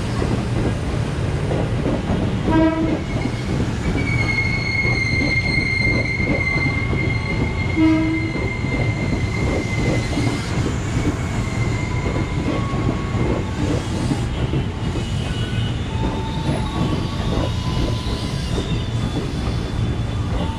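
A train rolling past with a continuous low rumble of wheels on track and two short knocks. About four seconds in a high steady wheel squeal sets in and holds for several seconds, followed by fainter squealing tones near the end.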